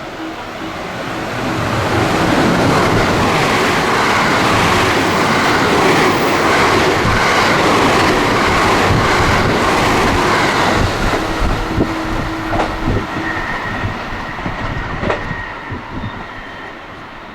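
Train passing through without stopping. A rush of wheel and air noise builds over the first couple of seconds and stays loud with the clack of wheels over rail joints. After about eleven seconds it fades away with scattered knocks.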